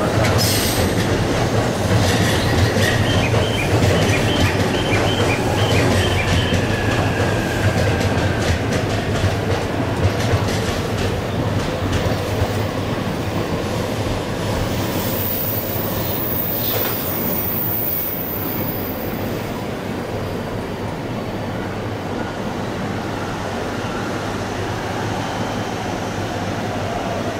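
Shinkansen trains moving slowly over the pointwork: a steady rumble of wheels on rail, with a run of clicks as wheels pass over switches and rail joints in the first half, and a brief high wheel squeal a few seconds in.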